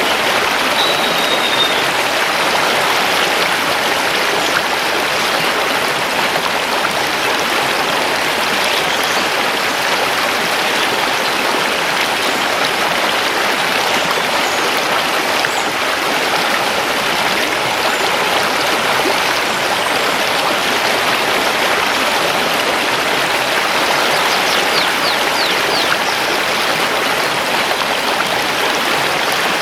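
Mountain river running over stones: a steady, even rush of water. Faint small-bird chirps come through about a second in and again near the end.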